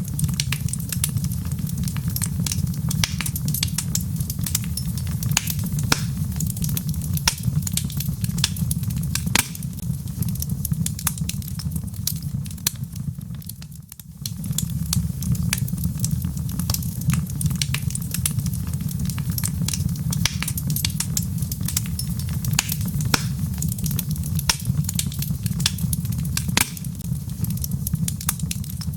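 Burning wood logs in a fireplace crackling, with sharp irregular pops and snaps over a steady low rumble of flame. The sound dips briefly about halfway through, then carries on as before.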